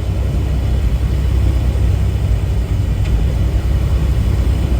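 Tractor-trailer cab noise while driving: the engine and road noise make a steady low rumble.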